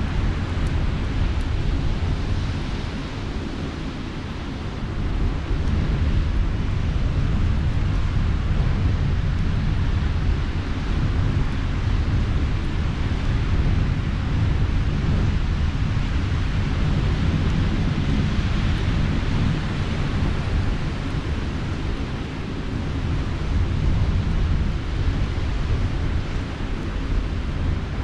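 Wind buffeting the microphone in a low, fluttering rumble over the hiss of the sea. It eases briefly about four seconds in and again near the end.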